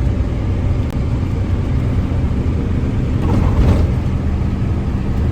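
Steady low rumble of a vehicle running, with no break.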